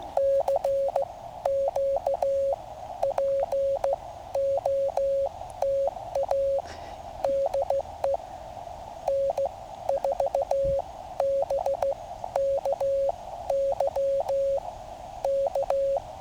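Morse code (CW) from a QRP Labs QCX mini transceiver's speaker: a single tone of about 600 Hz keyed in dots and dashes, in groups of characters, over the steady hiss of the receiver's narrow CW filter. It is an incoming station sending its callsign.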